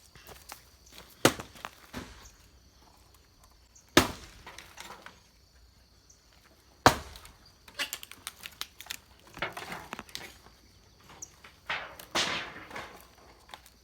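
Pieces of firewood knocking and clattering as they are dropped and stacked for a bonfire: a few loud sharp knocks several seconds apart, with clusters of smaller knocks and rustling between.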